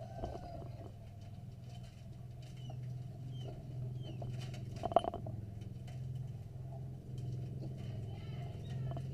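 Faint bird chirps scattered over a steady low hum, with one sharp click about five seconds in.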